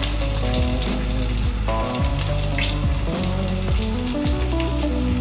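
Sabah fish frying in hot oil in a pan: a steady sizzle with scattered crackles.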